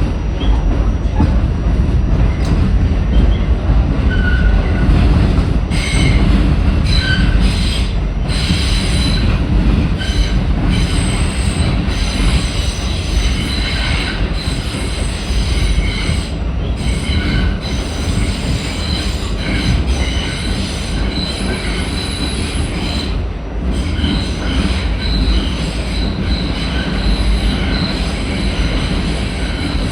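Passenger train running with a continuous low rumble and repeated short, high-pitched wheel squeals.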